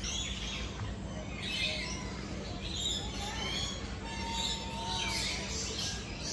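Many birds chirping and calling at once, short overlapping whistles and chirps, over a steady low hum.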